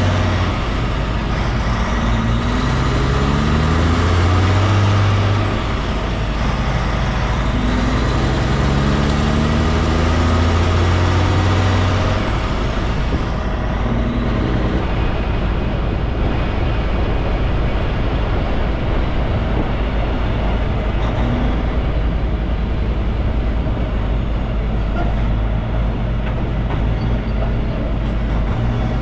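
Kenworth K200 road train's Cummins diesel engine pulling away, its pitch climbing and dropping back through gear changes for roughly the first twelve seconds, then running steadily on the road.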